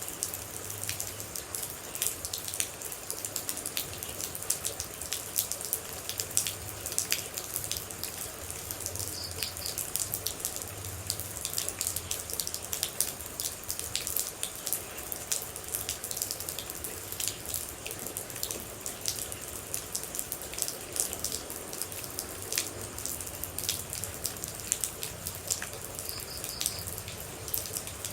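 Steady rain with many separate water droplets landing close by, each a sharp, irregular drip over a constant wash of rain.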